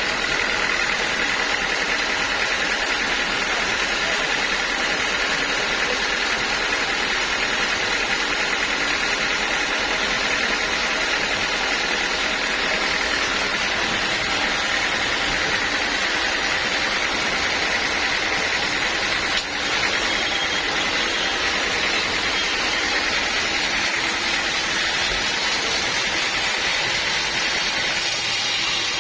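Homemade band sawmill running steadily while sawing teak.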